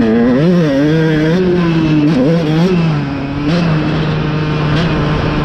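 Motocross dirt bike engine revving, its pitch rising and falling several times over the first three seconds, then holding a fairly steady pitch.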